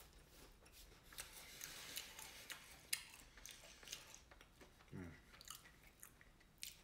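Faint eating sounds: many small clicks and crackles of chewing and mouth noises as fried catfish nuggets and french fries are picked up and eaten, with a brief murmur from the eater about five seconds in.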